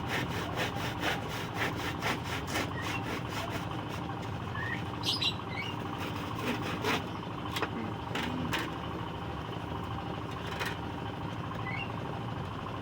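Handsaw cutting wood in quick, even strokes for the first few seconds, then a few scattered knocks. A steady background hum and a few short bird chirps run under it.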